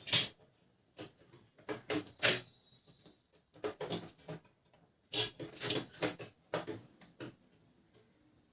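Plastic parts of a Canon LBP 2900 laser printer being handled and fitted back together: irregular short clicks, knocks and scrapes with pauses between them.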